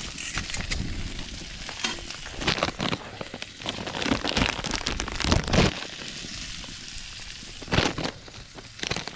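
Food sizzling on a Blackstone flat-top griddle, with a scattering of short scrapes and knocks, thickest in the middle.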